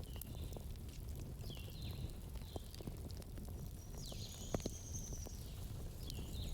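Campfire burning with a low steady rumble and scattered sharp crackles and pops. Short high chirps, some falling in pitch, come several times over it, with a longer high whistle about four seconds in.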